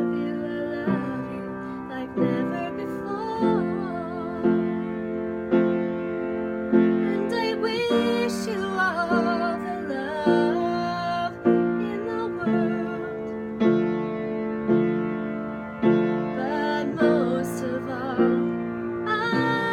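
A woman singing a slow ballad with vibrato over piano accompaniment, the piano chords struck about once a second.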